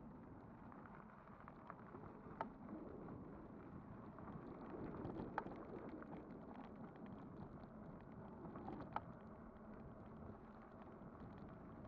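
Kugoo Kirin V5 e-bike on the move: a faint, steady rumble of tyres and wind, with scattered short clicks and rattles, three sharper knocks standing out a couple of seconds in, midway and about three-quarters through.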